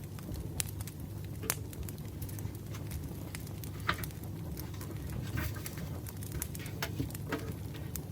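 Campfire crackling: irregular pops and snaps over a low, steady rumble of burning wood, with louder pops about a second and a half in and about four seconds in.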